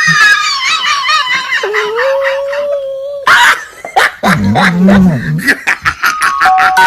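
A dog howling and whining in a wavering pitch, with one long, steady-pitched howl about two seconds in, followed by shorter, lower yips and whimpers.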